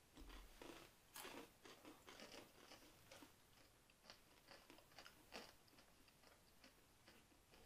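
Faint crunching and chewing of crunchy wheat snack bites, several people biting in at once. The crunches come thick over the first three seconds, then thin out to scattered ones.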